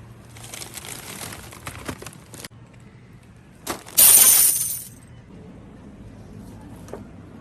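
Things being handled: about two seconds of rustling with small clicks, then one loud, sharp crackling clatter about four seconds in.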